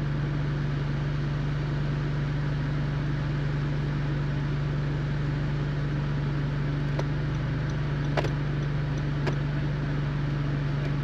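2017 Honda Civic's four-cylinder engine idling steadily, with a few short, sharp clicks in the second half.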